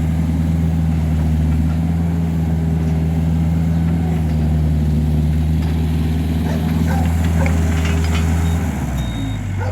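An engine running steadily at a constant speed, settling to a lower pitch about nine seconds in.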